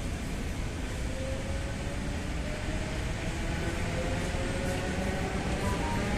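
Steady rumble and hum inside the passenger car of an Ivolga 4.0 electric commuter train, with a faint whine slowly rising in pitch.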